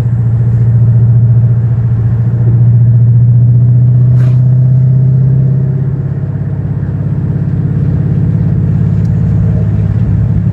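Dodge Charger's 5.7L Hemi V8 and its tyres making a steady low drone while cruising at about 40 mph. About six seconds in the drone eases off and grows a little quieter. There is a brief click about four seconds in.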